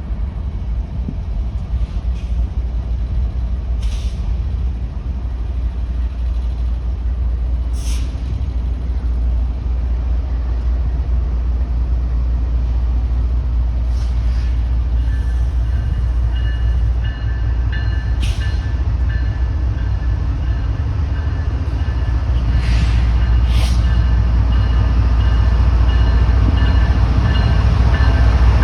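Freight train rolling past, its cars giving a steady low rumble, with short high hisses every few seconds. Thin high squealing tones from the wheels join about halfway through, and the rumble grows a little louder near the end.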